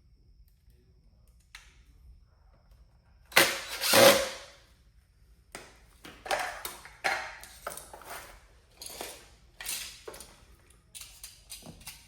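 Tools and vacuum parts being handled on a work surface: two loud clanks about three and a half and four seconds in, then a run of lighter knocks and clicks.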